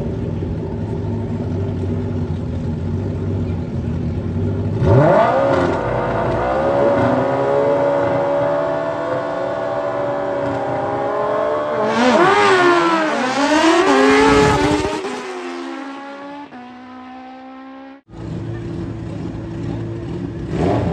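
Drag-racing motorcycle engines idling at the line, then launching with a sharp rise in engine pitch and holding high revs. Later the pitch drops and climbs several times in quick succession as the bikes shift up through the gears, then fades and cuts off before another engine idles.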